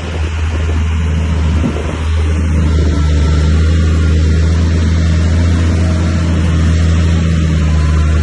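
Bulldozer's diesel engine running steadily with a deep hum, getting louder about two seconds in and then holding.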